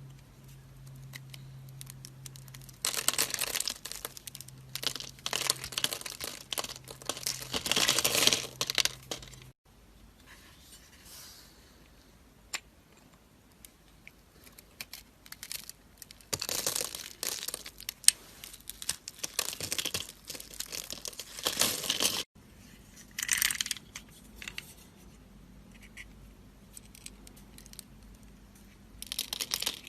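Dry soap being cut with a knife: runs of crackly, scratchy cutting a few seconds long, with quieter pauses between them.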